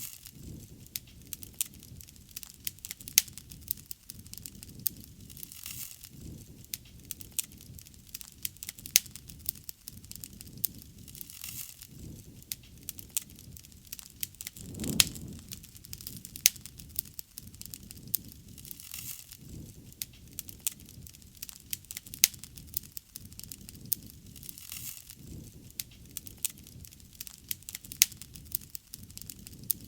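Wood bonfire crackling: frequent irregular sharp pops and snaps over a low, steady rush of flame, with a louder swell of the rush about halfway through.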